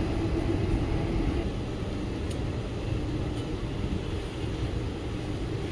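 Steady running rumble of an Indian Railways ICF passenger coach travelling along the track, heard from on board, with a faint steady hum and a couple of faint clicks around the middle.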